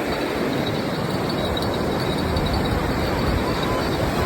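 Wind buffeting the microphone over the steady wash of sea surf, a continuous noisy rumble with no clear events.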